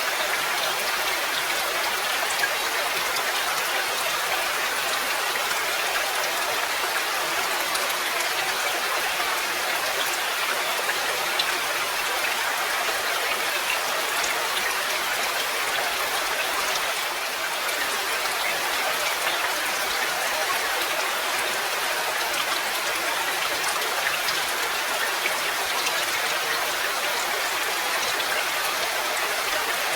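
Steady rain: an even hiss of many drops, with the odd single drop ticking out of it.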